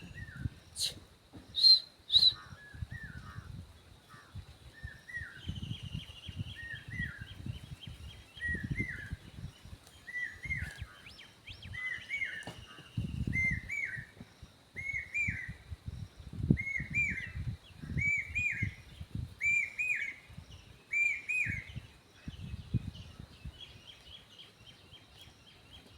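A bird repeating a short call about once a second, the notes climbing in pitch and growing louder as the series goes on, over a faint steady high whine. A few sharp clicks near the start, and low rumbles come and go underneath.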